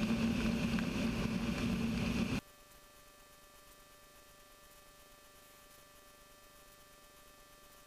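A Kitfox IV's Rotax 582 two-stroke engine and propeller droning steadily in the cockpit. About two and a half seconds in, the sound cuts off abruptly, leaving only a faint electrical hum.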